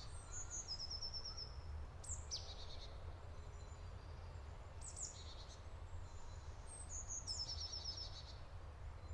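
Songbird singing in woodland: short, high phrases that step down in pitch, repeated every two to three seconds, over a steady low rumble of outdoor background noise.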